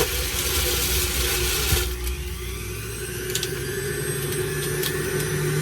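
Electric juicer motor running steadily while juicing dragon fruit, a constant hum with a hissing grind that falls away about two seconds in, leaving the motor hum.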